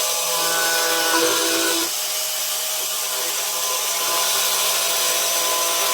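Power grinder fitted with a slotting cutter attachment, its motor running steadily as it cuts into wood. Its tone shifts and the sound dips slightly about two seconds in.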